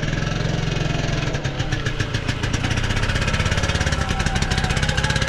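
Pitbike's small single-cylinder engine running steadily at an even pitch.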